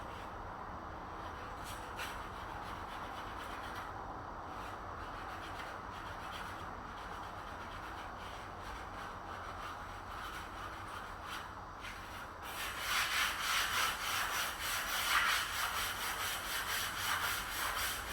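Abrasive rubbing on wood, like sanding during a door repair: a steady rasping at first, turning louder and harsher with quick repeated strokes about twelve seconds in.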